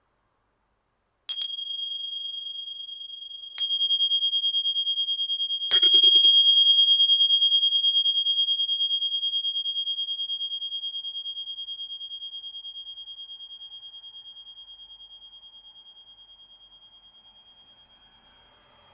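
Tingsha (small Tibetan hand cymbals) struck three times about two seconds apart, the third strike the loudest. One high ringing tone with a slow wobble, fading away over about thirteen seconds.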